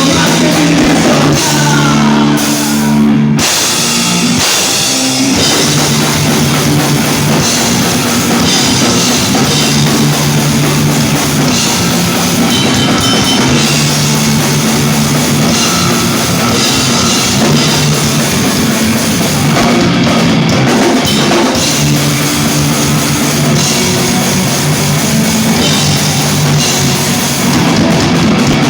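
Rock band playing live and loud: drum kit with cymbals driving under electric guitars and bass, in a heavy rock style.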